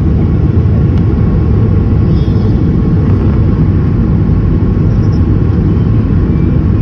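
Cabin noise of a Boeing 737 MAX 8 during takeoff: a loud, steady low rumble of its CFM LEAP-1B engines and airflow, heard from a seat behind the wing.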